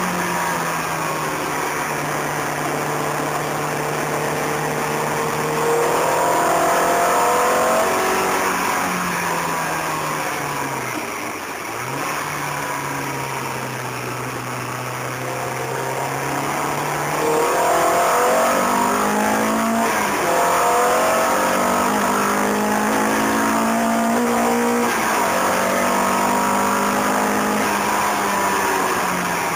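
Peugeot 306 GTi-6's four-cylinder engine driven hard round a circuit, heard from inside the cabin: it pulls steadily, falls in pitch and eases off around ten to twelve seconds in as it slows for a corner, then accelerates again with the revs rising and stepping through gear changes.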